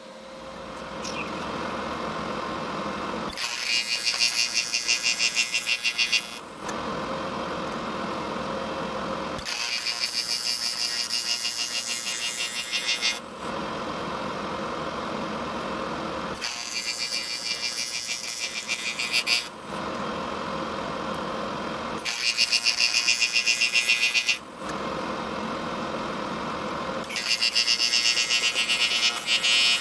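Arc welding on a cast-iron engine block to fill a crack in the casting: five separate welding runs of a few seconds each, crackling and buzzing with a rapid even ticking, with a steady hum from the welding machine between them.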